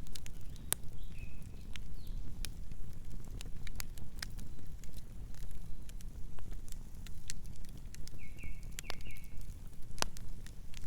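Wood campfire burning, with irregular crackles and sharp pops over a low steady rumble. A few short high chirps come about a second in and again as a quick run of four near the end.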